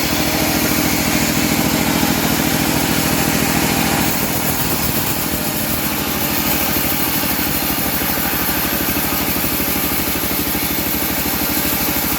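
Small engine of a homemade bandsaw mill running steadily, its note shifting slightly about four seconds in.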